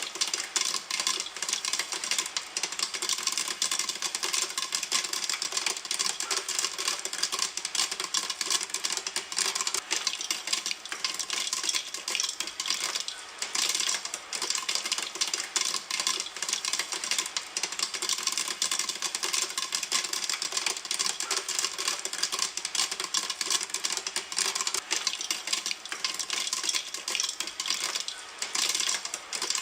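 Popcorn popping in a pan: a dense, continuous crackle of rapid pops and kernels ticking against the pan.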